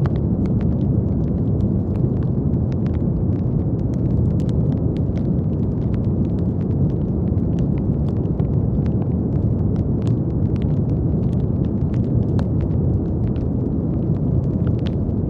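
Steady, deep brown noise with its weight in the low range, unbroken throughout, with faint scattered crackles and clicks sprinkled over it.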